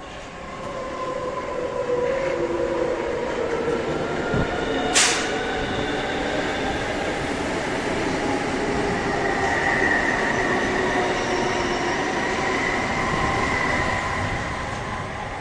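Hamburg S-Bahn class 474 electric multiple unit running along the platform: steady rolling noise of wheels on rail, with the pitched whine of its electric drive, growing louder over the first two seconds. A short, sharp, high-pitched sound comes about five seconds in, and a high sustained squeal runs through the second half before the sound fades near the end.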